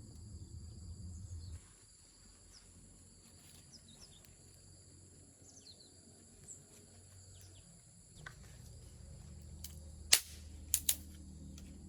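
Insects trilling steadily in high, even tones over a low rumble, broken about ten seconds in by three sharp knocks: one, then two close together.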